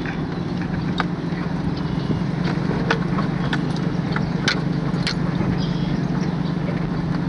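Farm vehicle engine running steadily, with scattered sharp clicks and rattles over the drone.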